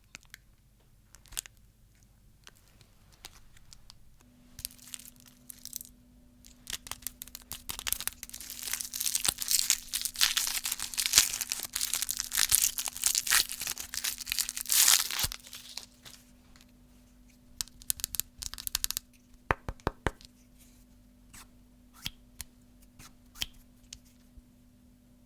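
Crinkly plastic candy wrapping being handled and torn open, with dense crackling for several seconds through the middle, then scattered sharp clicks and taps. A faint steady hum runs underneath.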